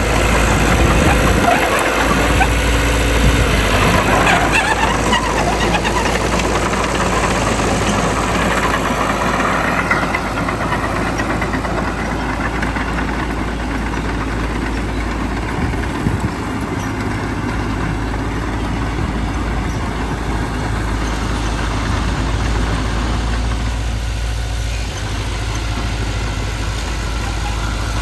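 Diesel engine of heavy earthmoving equipment running with a steady low rumble, with busier rattling in the first ten seconds or so, then steadier and slightly quieter.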